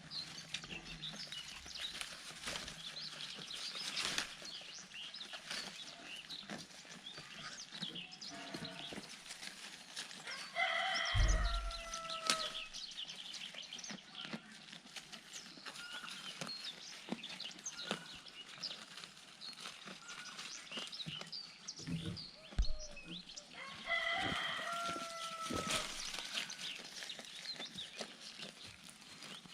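A rooster crowing twice, about thirteen seconds apart, each crow ending in a long held note. Between and under the crows, a flock of chickens clucking, with many short chirps and clicks.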